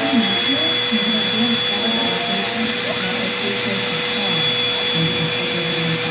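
Vacuum cleaner running steadily, a constant hiss with a steady whine, as it is pushed over a rug.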